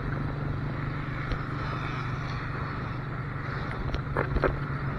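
Motorcycle engine running steadily on the road, with wind and road noise over it, and two short sharp sounds about four seconds in.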